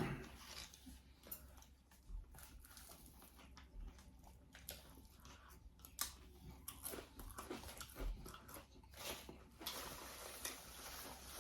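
Close-up mouth sounds of biting into and chewing a toasted Subway sub sandwich: faint, irregular soft crunches and wet clicks.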